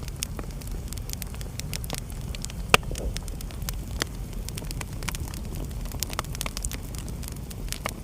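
Wood fire burning in a fireplace: a steady low rumble of flames with irregular sharp crackles and pops, one loud pop a little under three seconds in.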